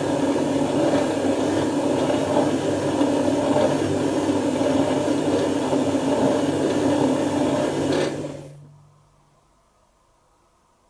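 Dyson Contrarotator CR01 washing machine mid-wash, its motor turning the drum with a steady churning noise and low hum. About eight seconds in it stops suddenly, with the hum winding down briefly after.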